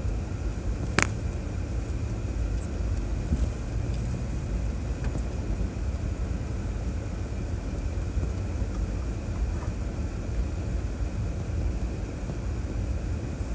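A 2006 Chevrolet Trailblazer driving on a trail: a steady low rumble of engine and tyres, with one sharp knock about a second in.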